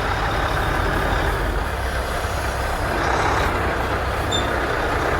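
Tractor-trailer's diesel engine running at low speed with a steady rumble as the truck slowly reverses a container trailer into a parking spot.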